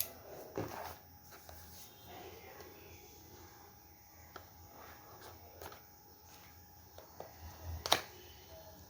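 Smartwatch box and packaging being handled: scattered small clicks, taps and rustles, with one sharper click near the end.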